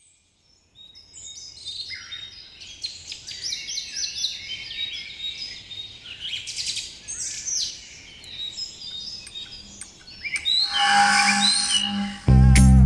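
Birds singing, with many overlapping short chirps and trills, growing louder about ten seconds in. Music with bass and drums cuts in abruptly just before the end.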